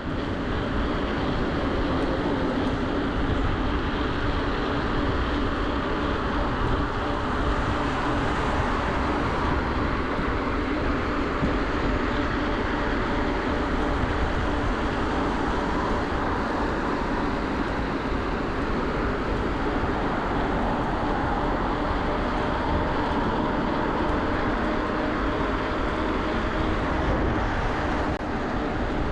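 Steady rush of wind and road noise from an electric bike ridden at speed beside traffic, with the steady whine of its Bafang BBSHD mid-drive motor under power.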